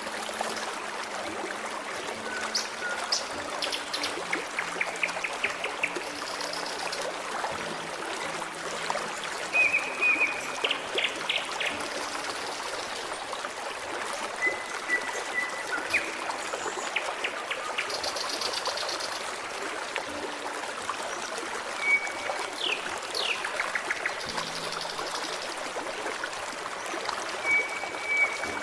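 Forest stream trickling and burbling steadily, with birds singing over it: scattered short chirps, quick trills of repeated notes and brief clear whistles.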